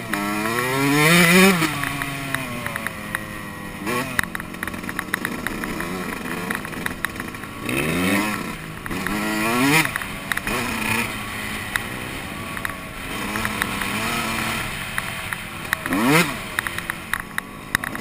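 Yamaha YZ125 two-stroke motocross engine being ridden, revving up and easing off as the throttle is worked. The revs rise sharply about a second in and again around eight, ten and sixteen seconds in, with scattered short clicks between.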